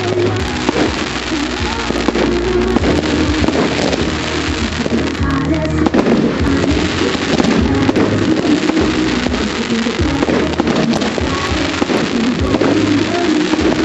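Fireworks going off in many sharp bangs and crackles over loud music.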